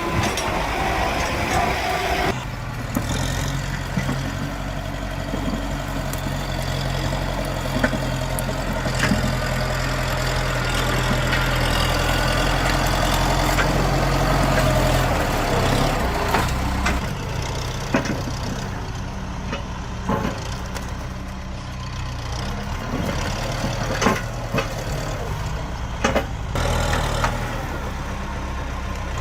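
Tractor engine running steadily, working harder and louder about halfway through, then easing back, with occasional sharp knocks and clanks.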